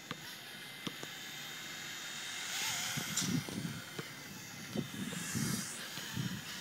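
Small remote-control toy helicopter running, its electric motor and rotor making a faint steady whine, with a few soft low thumps and rustles in the second half.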